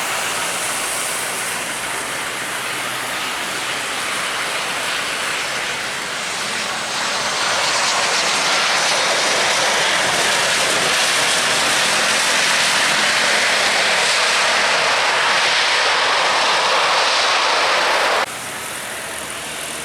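Airliner engines: a loud, steady rush that grows louder about seven seconds in, then cuts off suddenly near the end.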